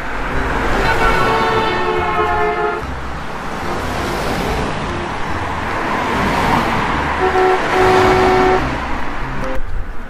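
Vehicle sound effect: an engine running steadily, with car-horn honks that sound in short repeated toots for about two seconds starting half a second in, and again a little after seven seconds in.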